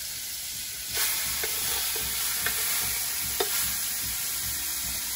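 Chicken pieces dropped into a pot of hot fat over a wood fire, frying with a sizzle that flares up sharply about a second in. A few light clinks of a metal utensil against the bowl or pot.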